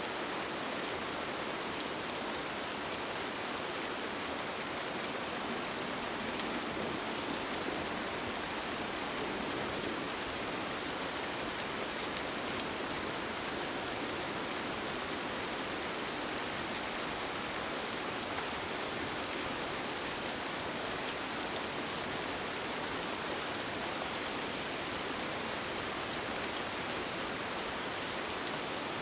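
Steady, even rain falling on a tent, with the fine patter of single drops over a constant hiss.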